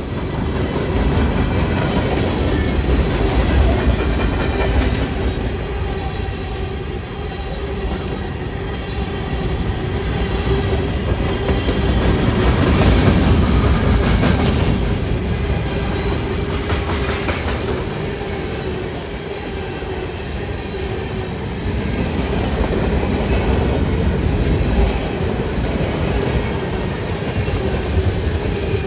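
Train rolling past, a steady rumble of wheels on the rails that swells and eases, with a steady tone held throughout and a run of rail clicks around the middle.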